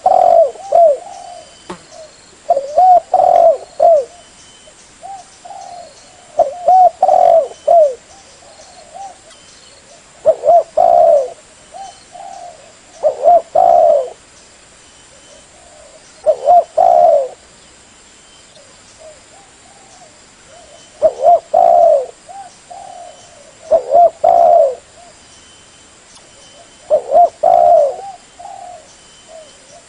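Spotted dove (tekukur) cooing, used as a lure call for other doves: short loud runs of coos repeat about every three to four seconds, with quiet gaps between.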